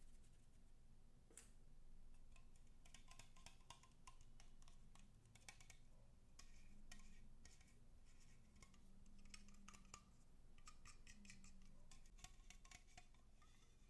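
Faint, irregular clicks and crackles from slime-making materials being handled.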